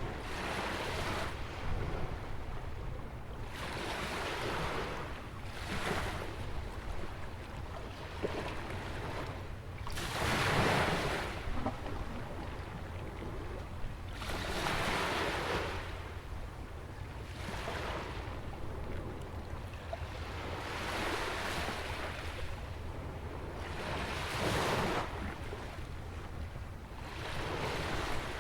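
Ocean waves breaking and washing against a rock jetty and sandy shore in repeated surges every two to four seconds, the biggest about ten seconds in, over a steady low rumble of wind on the microphone.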